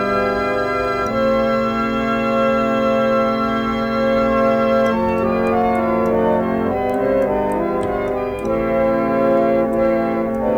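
Instrumental music: organ-like keyboard playing held chords that change every second or two, with a few faint ticks up high midway through.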